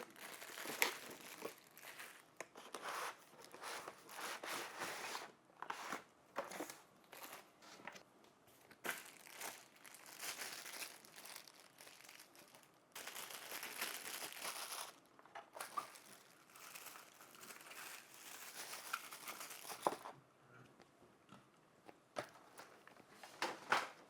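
Cardboard box and plastic packaging rustling, crinkling and tearing in irregular bursts, with light clicks and knocks as a handheld vacuum and its parts are unboxed.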